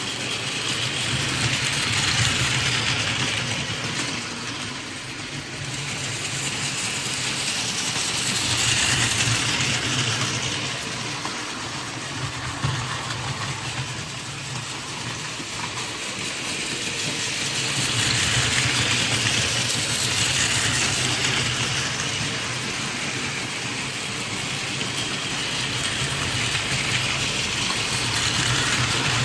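Battery-powered Plarail toy Shinkansen trains running on plastic track: a steady small-motor hum and wheel rattle that grows louder and fainter about four times as the trains pass close and move away.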